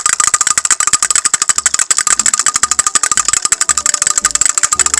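Rapid, even mechanical clicking rattle, about a dozen sharp clicks a second.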